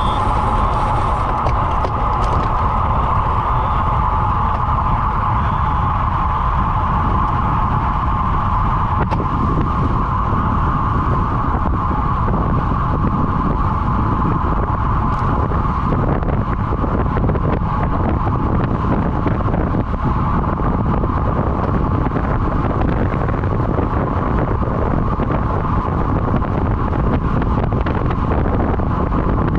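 Wind rushing over the microphone of a camera on a road bike ridden at race speed, with a steady high hum from the moving bike running through it.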